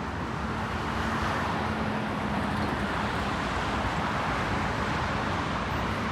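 Steady road traffic noise: the even rush of cars passing on a nearby road.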